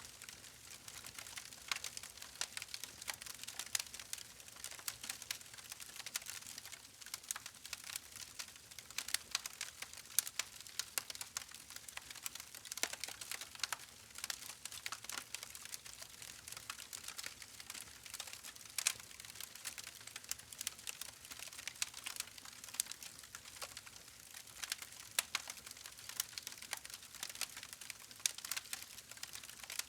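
Campfire crackling: burning wood giving a continuous run of small sharp snaps and pops, several a second, with an occasional louder pop standing out.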